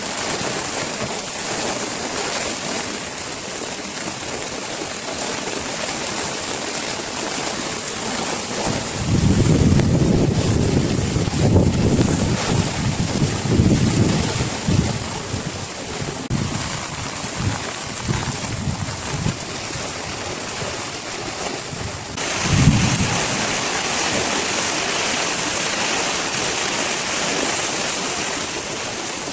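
Torrential rain hissing steadily, with gusts of wind buffeting the microphone for several seconds near the middle and one short low thump about two-thirds of the way through.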